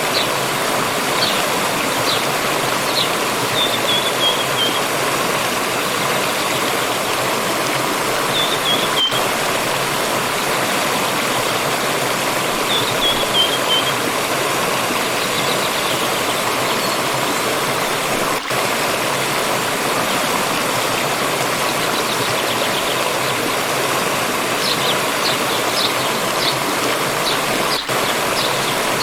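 Water stream running steadily, with a small bird calling over it: short high chirps, and three brief trills of a few notes each that fall in pitch, at about 4, 8 and 13 seconds in.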